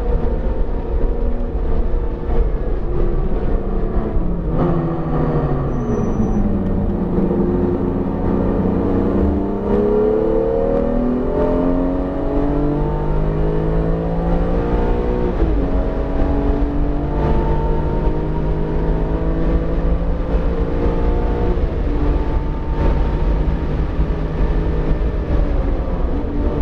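BMW E46 M3's S54 inline-six running hard on track. Its pitch falls about five seconds in as the car slows, climbs steadily through the revs, and drops sharply at a shift about fifteen seconds in before holding fairly steady. Road and tyre noise runs underneath. The engine is freshly rebuilt and still in break-in, with revs kept below 7,000.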